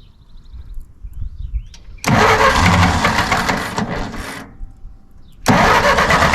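The 1946 Massey Ferguson tractor's engine being cranked over by its starter in two bursts: one of about two and a half seconds starting about two seconds in, then after a pause of about a second, cranking again. The engine has been failing to start, which the owner takes for a spark that comes and goes.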